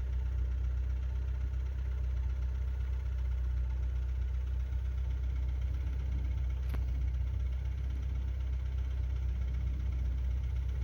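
Opel Corsa Lite's 1.4-litre petrol engine idling steadily, a low, even hum, with one sharp click about two-thirds of the way through.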